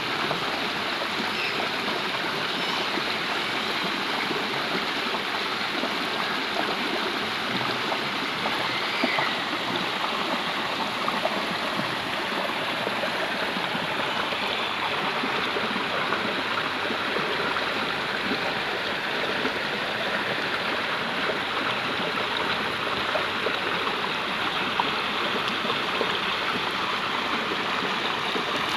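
A stream of water flowing and gurgling steadily over rocks, with small splashes here and there.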